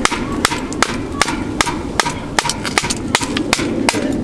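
Quick, evenly spaced sharp strikes, about two and a half a second, like a tool hammering.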